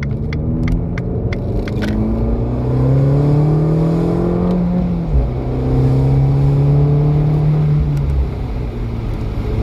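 Abarth 595C Turismo's turbocharged 1.4-litre four-cylinder, breathing through a Record Monza exhaust, accelerating with a steadily rising note. About five seconds in the note drops at a gearshift, then it climbs again in the next gear before the throttle eases off near the end.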